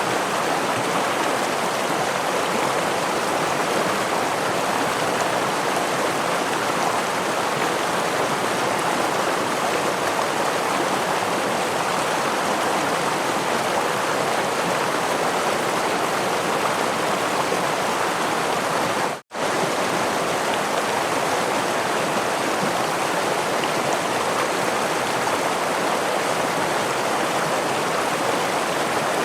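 Steady rush of a stream and small waterfall, an even water noise. It cuts out for a split second about two-thirds of the way through.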